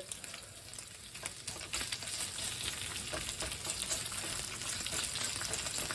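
Bacon sizzling in a frying pan: a steady hiss with fine crackles that grows a little louder after the first second.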